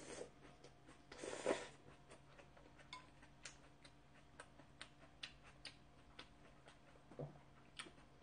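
Eating close to the microphone: a mouthful taken off chopsticks with a brief noisy mouth sound about a second and a half in, then faint chewing with scattered small mouth clicks.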